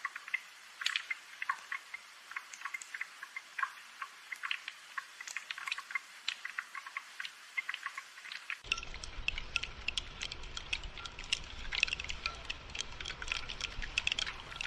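Rain dripping and pattering as a dense stream of small irregular ticks. About two-thirds of the way in, a low rumble joins in under the drips.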